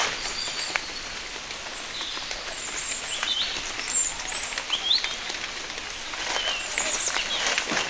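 Rain falling with scattered drips, a steady hiss, while small birds chirp several times in short rising and falling calls.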